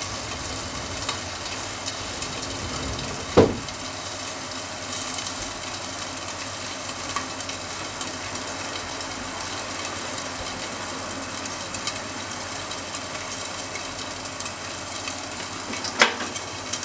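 Sausages and eggs frying in a pan under a glass lid: a steady sizzle with small crackles, and two sharp louder pops, one about three and a half seconds in and one near the end.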